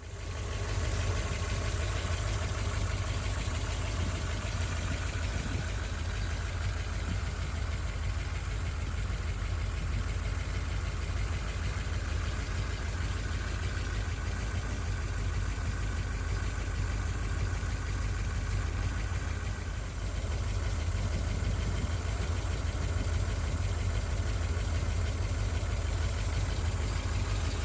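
1968 Corvette Stingray's 327 Turbo-Fire small-block V8 idling steadily, its sound mostly deep and low.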